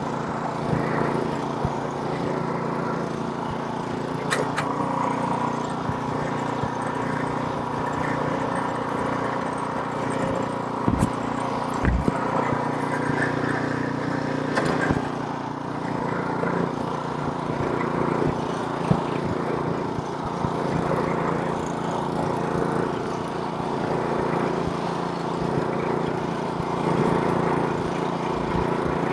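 Snowblower's small gasoline engine running steadily as it clears snow, with several short sharp knocks scattered through.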